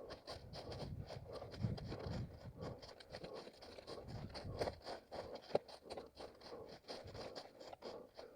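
An orienteer's running footsteps on rough forest ground, about three strides a second, with scraping and rustling from the ground cover underfoot.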